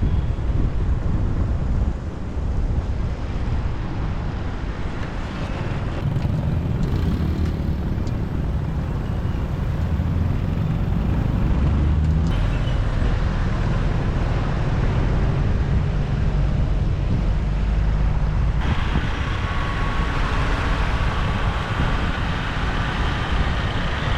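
Motorbike riding in city traffic: its engine running steadily under road noise and the sound of the traffic around it, the noise turning brighter about three-quarters of the way through.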